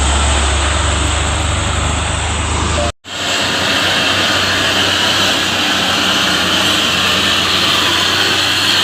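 Heavy diesel truck engines running hard under load on a steep climb, a deep rumble under a loud wash of engine and road noise. The sound drops out completely for a moment about three seconds in, then returns with less low rumble and more hiss.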